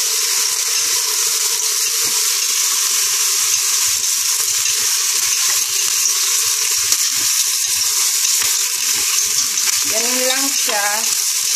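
Rehydrated abalone sizzling as it is stir-fried with ginger and spring onion in a stainless-steel pot, a steady frying hiss. Scattered clacks and scrapes come from the utensil stirring against the pot.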